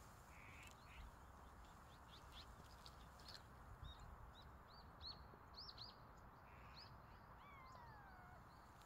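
Faint bird chirping: a quick run of short, high chirps, then one longer call falling in pitch near the end.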